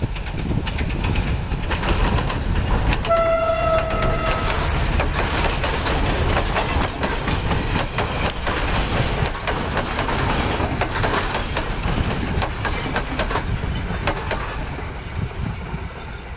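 Sri Lanka Railways Class M9 diesel locomotive and its coaches passing close by: engine rumble and the wheels clicking over rail joints. One horn blast of about a second and a half comes a few seconds in.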